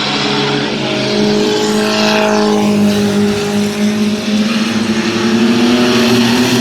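Racing mini trucks' engines running hard around the oval, a steady loud drone, with one truck sweeping past about two seconds in.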